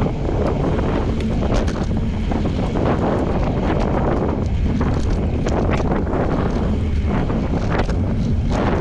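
Steady, loud wind buffeting the microphone of a camera on a moving bicycle, with faint scattered clicks and rattles.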